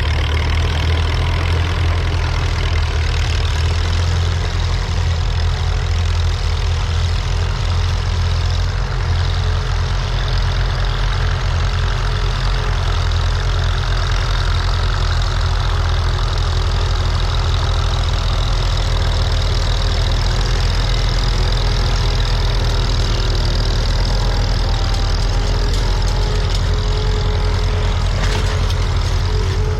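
Tractor engine running steadily with a loud, low rumble.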